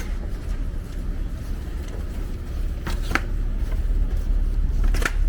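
City street noise: a steady low rumble, with a few sharp clicks or knocks about three seconds in and again near the end.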